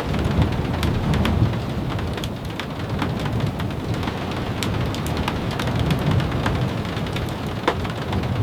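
Steady rain with low rolling rumbles of thunder, heaviest in the first second and a half and again around six seconds in, and scattered sharp ticks and crackles throughout.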